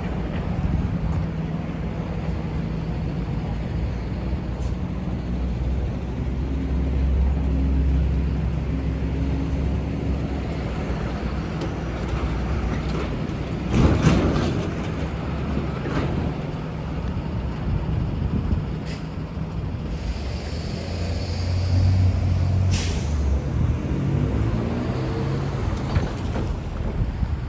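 Transit buses on the street, their engines running and swelling as they pull past. A sharp burst of noise about halfway through, and a high hiss of air brakes about twenty seconds in.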